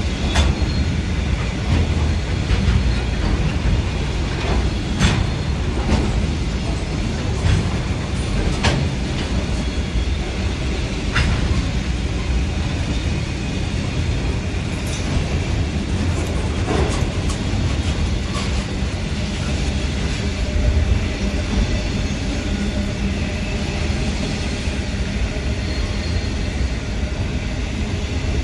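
Container freight train's wagons rolling past close by: a steady low rumble of steel wheels on rail, with a few sharp clicks and clanks at irregular intervals.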